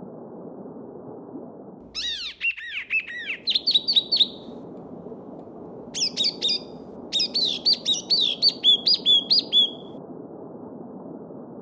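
A small stream babbling steadily, with a songbird singing two quick phrases of varied chirps and whistles, about two seconds in and again about six seconds in.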